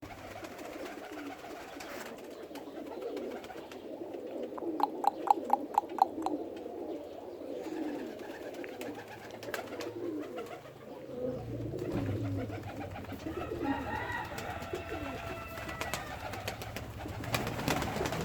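Domestic pigeons cooing continuously in a small enclosed space. About five seconds in comes a quick run of roughly eight sharp claps or knocks.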